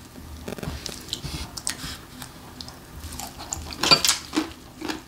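Close-miked eating sounds of a bite of braised pork trotter (jokbal) with kimchi: wet, clicking chewing and mouth smacks, with a sharper click about four seconds in.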